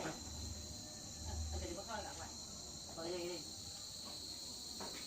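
Steady, high insect chirring of crickets, with faint voices in the background.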